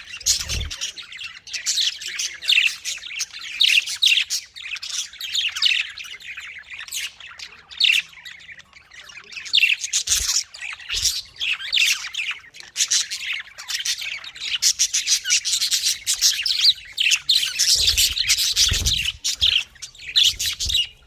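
Budgerigars chattering and chirping continuously, a dense run of quick, high, overlapping warbles and chirps.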